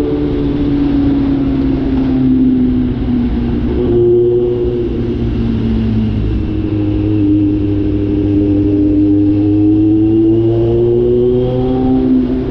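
Kawasaki Z900 inline-four engine with the catalytic converter removed, running on the move. Its pitch sinks over the first few seconds, changes step about four seconds in, climbs steadily from about six seconds, then eases off near the end.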